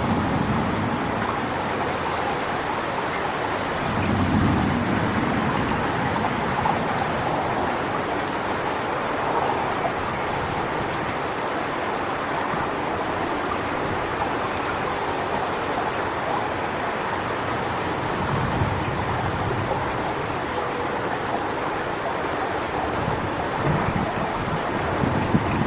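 Strong wind rushing through coconut palm fronds as a steady, loud hiss, with gusts buffeting the microphone as brief low rumbles a few times.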